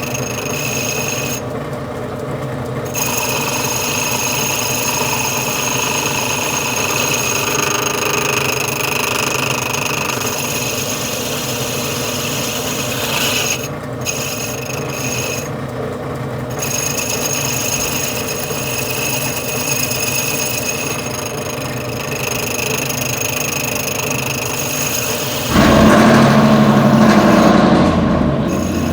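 Metal lathe running while its cutting bit faces down the transmission's high gear clutch piston, a steady machine hum with a scraping cut. About 25 seconds in, a louder, rougher sound takes over.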